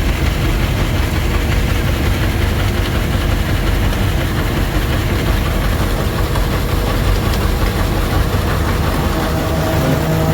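Farm tractor engine running steadily under load, driving the auger that unloads ground feed. A steady low hum comes in near the end.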